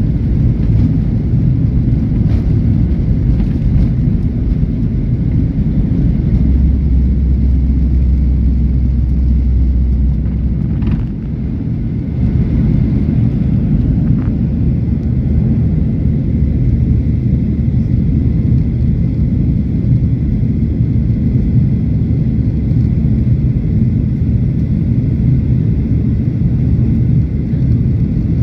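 Boeing 737 jet engines at takeoff power, a steady low rumble that dips briefly about 11 seconds in.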